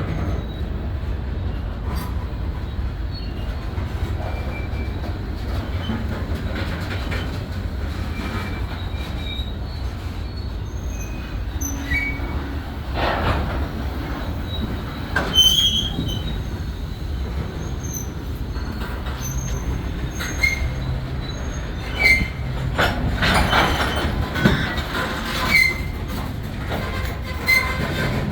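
Freight grain train rolling on the rails with a steady low rumble. Short high-pitched wheel squeals and sharp metallic clanks come and go, more often in the second half.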